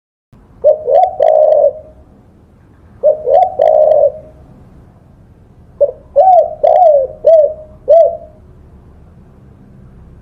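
Spotted dove cooing: two short three-note phrases, then a longer run of about six arched coos, over a faint low hum.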